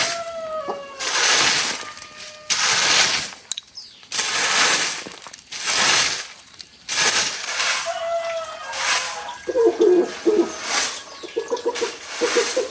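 Repeated rasping strokes, about one every second and a half, like a hand saw or scraper working wood or bamboo. Birds call faintly in between, with a quick pulsing call near the end.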